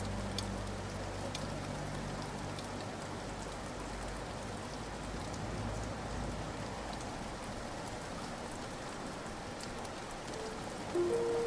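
Steady rain falling, with scattered individual drops ticking. A low held musical tone fades out in the first couple of seconds, and a few musical notes come in near the end.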